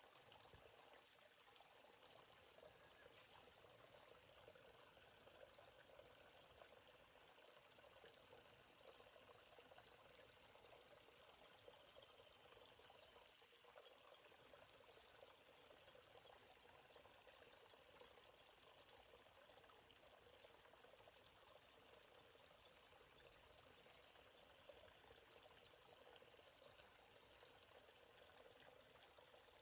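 Steady high-pitched insect chorus over the faint, even rush of a flowing stream.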